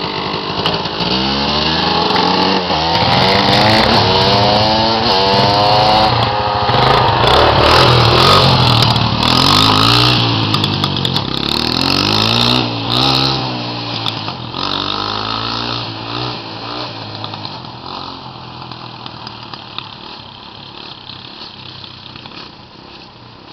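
Dirt bike engine revving up and down as it is ridden, its pitch rising and falling repeatedly. It fades steadily over the last several seconds as the bike moves away.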